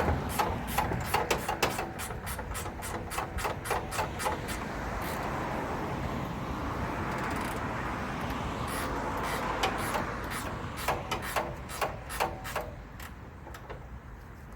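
Workshop sounds played back fast in a time-lapse: a quick, irregular run of clicks and clanks of tools and parts over a hiss, thinning out and getting quieter near the end.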